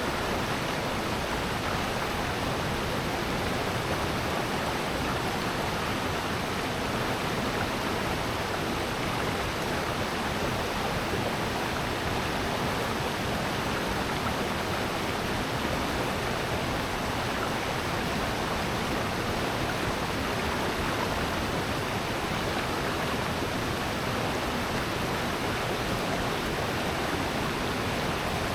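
Mountain stream water rushing and splashing over rocks in a steady, unbroken roar, with the even spread of a nearby cascade.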